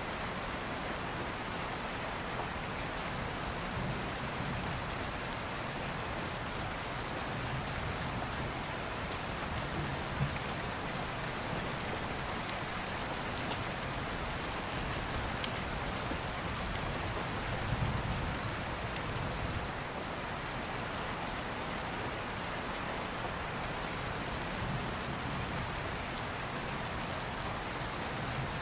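Steady rain falling on a surface, an even hiss throughout. Now and then a sharp click rises above it, and a few soft low rumbles come and go, the loudest about two thirds of the way in.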